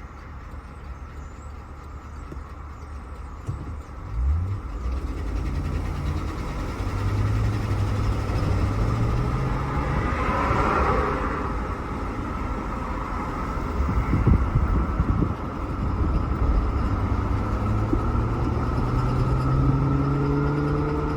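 GMC Yukon XL's 5.3-litre V8 running on the road, picking up speed about four seconds in and again near the end, with the knock of a failing connecting-rod bearing (rod knock). Road noise runs underneath, with a rush of noise about ten seconds in.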